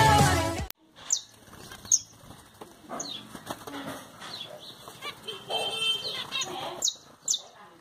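The tail of a music track cuts off just under a second in; then small aviary birds give short, high, downward-sweeping chirps at irregular intervals, with some wing fluttering.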